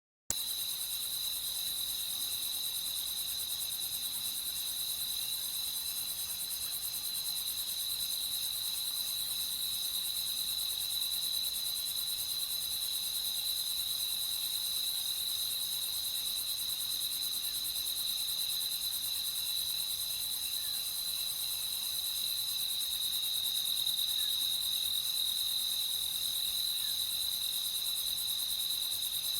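Steady chorus of crickets, one continuous high-pitched trill with no breaks, cutting in abruptly a moment after silence.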